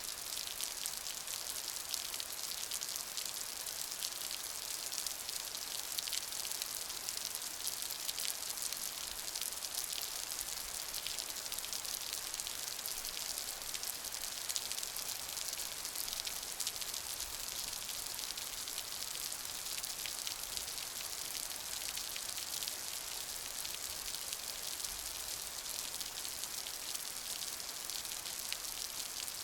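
Steady rain falling, a dense patter of fine drops with an even hiss.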